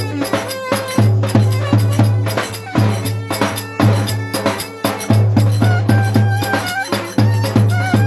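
Traditional folk dance music played by a band: a steady beat with a pulsing low bass line and a pitched melody above it, with a rattle or shaker-like percussion.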